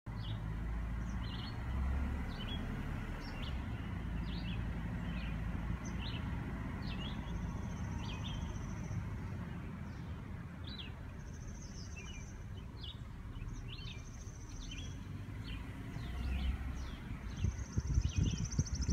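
Outdoor ambience of many birds chirping, with a few short high buzzy trills, over a low steady rumble. The rumble grows louder near the end.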